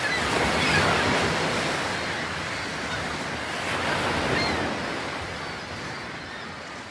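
Sea waves washing onto the beach. The surf swells about a second in and again around four seconds, then slowly dies down.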